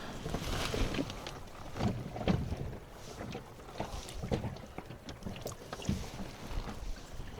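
Small waves lapping and slapping irregularly against the hull of a small fishing boat, with wind on the microphone and scattered light knocks.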